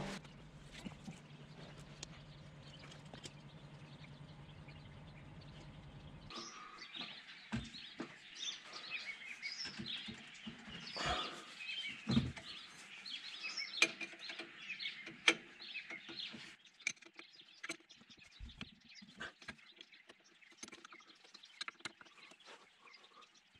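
Birds chirping, with scattered faint clicks and knocks. A low steady hum runs for the first six seconds and then stops.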